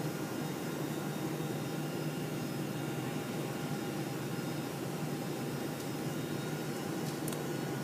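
Steady cabin roar of a Boeing 747-400 on final approach, heard from inside the upper-deck cabin: airflow and engine noise with a low steady hum.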